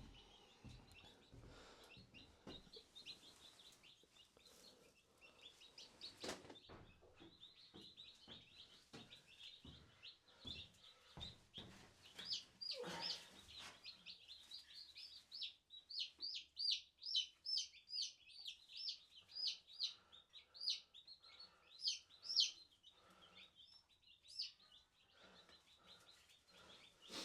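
Newly hatched chicks peeping: short, high, falling peeps, scattered at first, then coming rapidly and louder over the second half. A couple of soft knocks early on.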